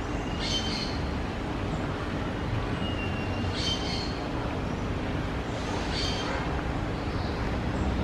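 Small birds giving short high chirps every two to three seconds, with one brief thin whistle, over a steady low rumble that is the loudest sound throughout.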